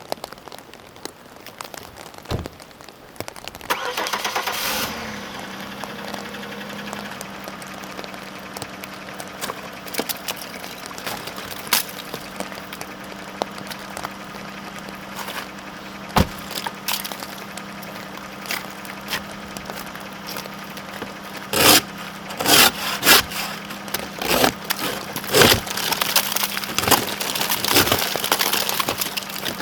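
A car engine cranks and catches about four seconds in, then idles steadily. In the last several seconds, a run of sharp cracks and scrapes as ice is chipped off the freezing-rain-coated car.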